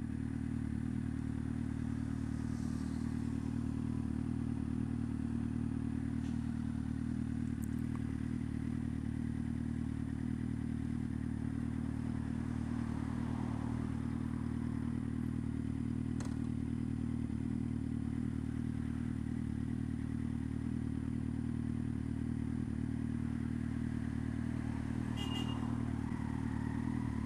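Motorcycle engine idling steadily, its low note holding at one pitch without revving, with a few faint ticks over it.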